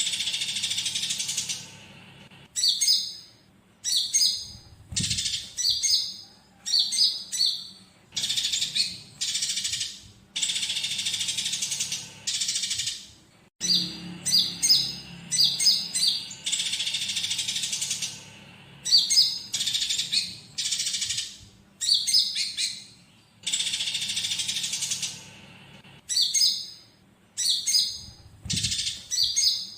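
Konin songbird singing on a training recording: clusters of rapid high chirps alternate with dense chattering bursts about two seconds long, over and over. Mixed in as fill-ins are the squabbling calls of fighting Eurasian tree sparrows.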